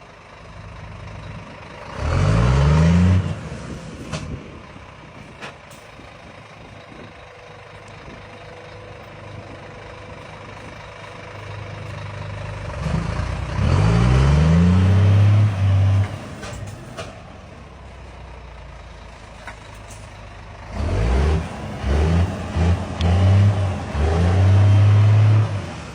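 Remote-control Scania model truck's engine sound, revving up in three loud bursts: about two seconds in, around thirteen seconds in, and in a run of short quick blips near the end. Each burst rises quickly in pitch and then holds steady, over a low steady hum.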